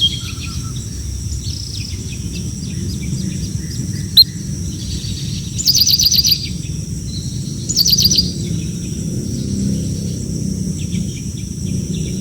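Hungry baby birds chirping, with two loud bursts of rapid high-pitched calls about six and eight seconds in, over a steady high buzz and low background noise.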